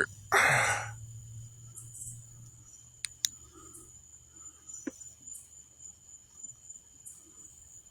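Faint steady high-pitched insect trilling, typical of crickets at night, over a low hum, with a few soft clicks. A short voiced sound comes about half a second in.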